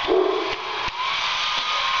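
Hair dryer blowing steadily, a rushing noise with a faint motor whine. A Great Dane's bark sounds at the very start. Just under a second in there is a click, and the whine then rises slightly and holds.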